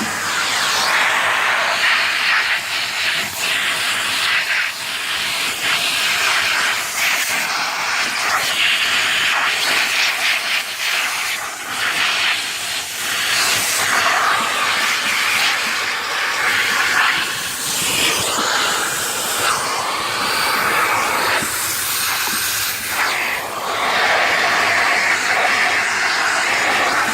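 Numatic Henry 200 canister vacuum cleaner running, its nozzle sucking over the car's floor with a steady hiss that swells and dips as the nozzle is moved about.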